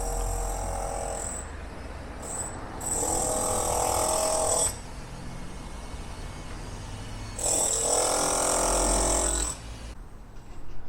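Scissor lift running in bursts: three spells of a steady mechanical whine with a high hiss, each lasting a second or two, over a low rumble. It is very noisy.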